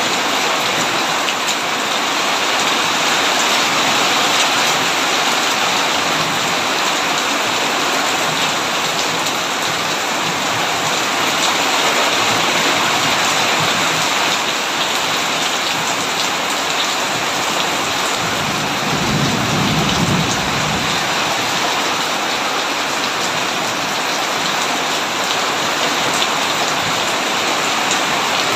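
Heavy rain falling steadily on a tin roof, with a low rumble of thunder lasting a couple of seconds about two-thirds of the way through.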